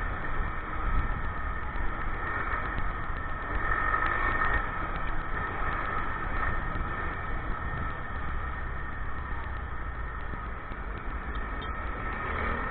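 Motorcycle engine running as the bike rides along, a steady drone with a low rumble.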